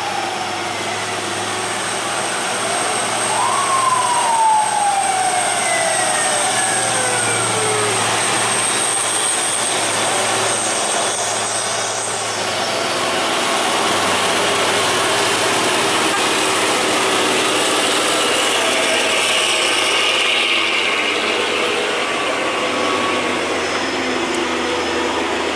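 Heavy truck running hard on a steep climb, a loud steady engine and road noise. In the first eight seconds a few whines fall in pitch, as revs drop.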